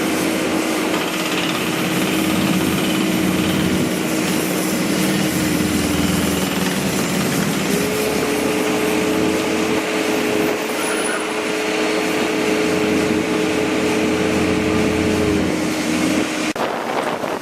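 Construction machinery running steadily: dense mechanical noise with a steady engine hum on two held tones. It cuts off suddenly near the end, leaving wind on the microphone.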